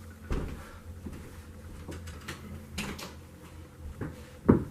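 Handling noise: scattered light clicks and bumps, with one sharp knock near the end.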